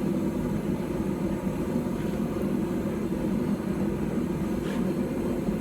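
Forge running steadily with a low, even rush of air, the workpiece heating with no hammer blows.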